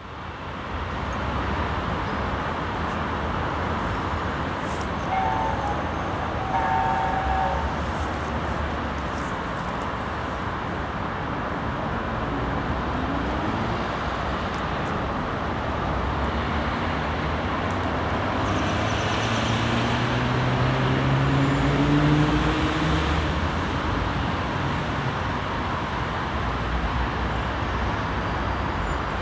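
Steady road traffic noise. A vehicle engine rises in pitch as it passes, loudest about twenty-two seconds in, and two short high tones sound about five to seven seconds in.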